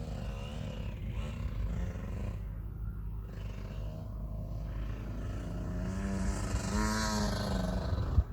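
KTM 65 SX motocross bike's small two-stroke engine running on the track, getting louder and rising then falling in pitch as it passes about seven seconds in. A single sharp click just before the end.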